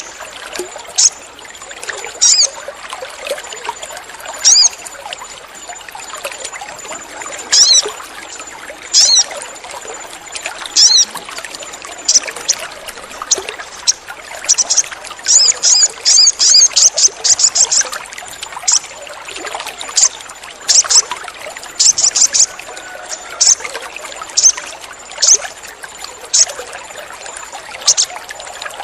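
Sogon bird calling: sharp, high chips and short downward-sliding notes in irregular bursts, with a quick run of chips about halfway through, over steady trickling water.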